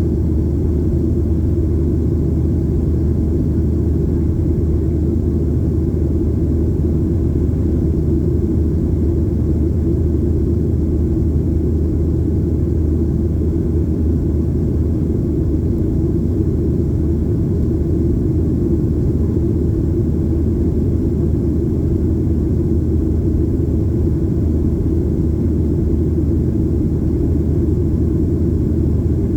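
Steady, loud low drone inside the cabin of a Boeing 737-800 in flight: its CFM56 jet engines and the rushing airflow, even and unchanging.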